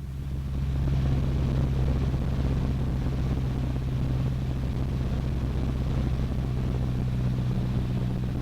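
Cessna 152's four-cylinder Lycoming O-235 engine and propeller droning steadily in cruise, heard from inside the cabin. It grows a little louder over the first second, then holds even.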